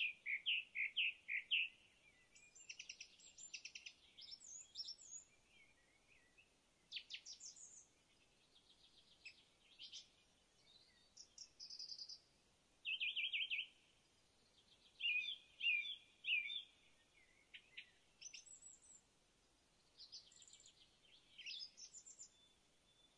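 Songbirds singing and calling: a string of short high chirps, quick trills and upward-sweeping notes, one phrase after another with brief gaps.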